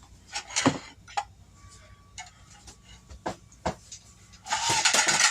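Scattered light knocks and clicks from kitchen utensils and containers as cake batter is prepared, then a short hissing, rustling burst near the end.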